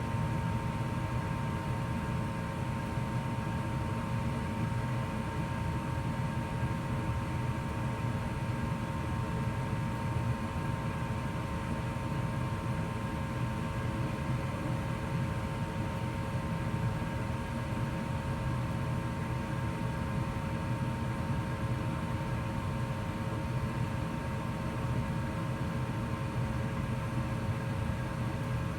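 2004 Goodman gas furnace running in heat mode: a steady rushing noise with a constant hum, holding even throughout.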